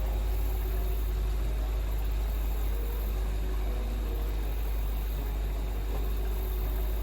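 Steady rush of fast-flowing river water, an even hiss over a deep rumble.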